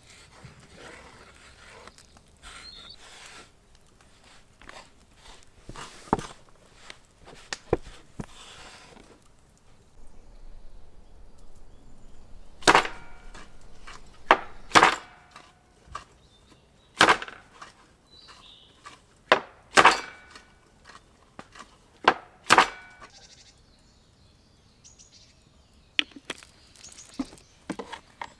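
A series of sharp knocks and cracks in irregular clusters, some with a brief metallic ring, among lighter clicks and handling noise.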